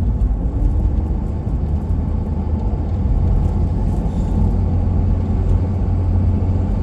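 Steady low rumble of engine and road noise from a truck driving along a highway, heard from inside the cab.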